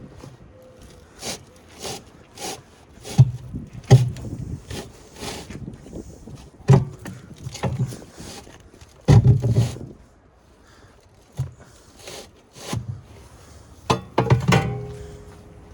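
A heavy forklift battery cell being pried and pulled loose inside the battery's steel case: irregular knocks, clunks and scraping, with heavy thuds about 3, 4, 7, 9 and 14 seconds in.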